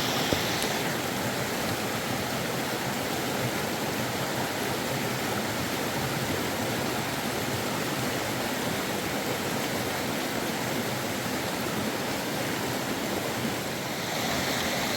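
Fast-flowing river water rushing steadily, with a brief knock about a third of a second in.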